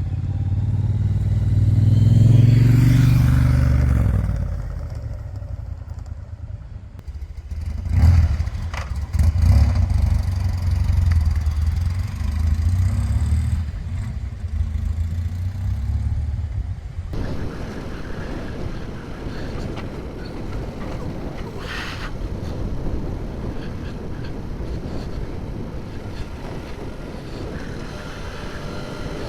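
Motorcycle engines: a loud engine rises and falls in pitch in the first few seconds, then an engine runs and revs unevenly. About seventeen seconds in, the sound changes abruptly to a steady rushing noise of wind and road while riding.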